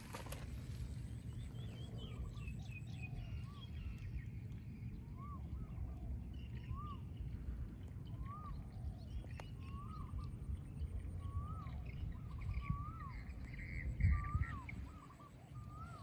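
A bird calling over and over outdoors, short rising-then-falling notes about every second and a half, over a steady low rumble like wind on the microphone. A brief louder low bump comes a couple of seconds before the end.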